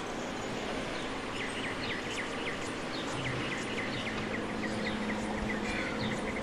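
A bird chirping over steady background noise: a rapid series of short, falling chirps, several a second.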